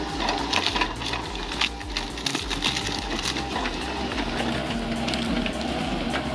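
Excavator working a tree stump with a stump-removal attachment: a steady low engine rumble with irregular sharp cracks and clicks over it.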